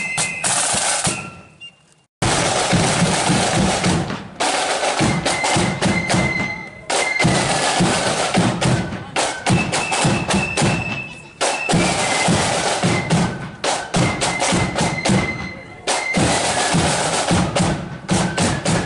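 Marching flute band playing: shrill flute melody over rapid snare and bass drum beats. The sound fades to near silence about two seconds in, then the band comes back in at full volume.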